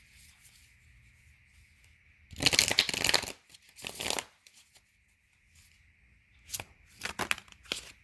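A deck of tarot cards being shuffled: a loud papery rustle of cards riffling about two and a half seconds in, a shorter one just after, then a few short sharp card snaps near the end as cards are drawn and laid down.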